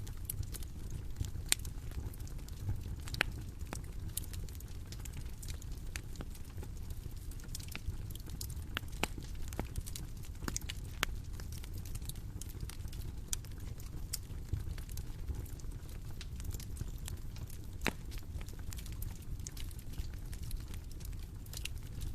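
Bonfire burning: irregular sharp crackles and pops of burning wood over a steady low rumble.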